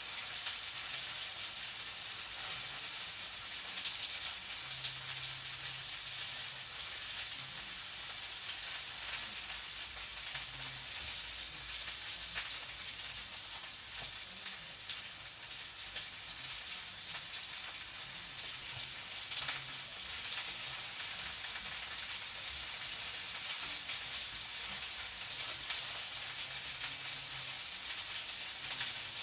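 Food frying in a pan: a steady, dense sizzle with small crackles.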